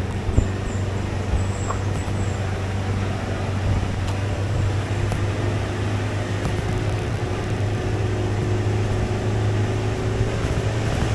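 Tour shuttle's engine running steadily with road noise while riding, heard from inside near the front, with a few short high chirps in the first couple of seconds.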